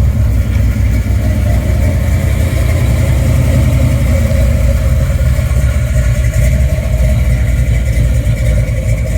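8-liter (488 cubic inch) Gen 6 big-block Chevy V8, tall-deck, with a ZZ502 cam, Hedman headers and Sniper fuel injection, idling steadily. The idle is loud and rowdy, but not too rowdy.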